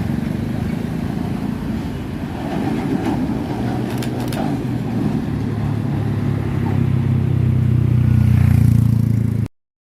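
Roadside traffic dominated by a truck engine running with a steady low drone. It grows louder over the last few seconds as the truck draws near, then cuts off suddenly near the end.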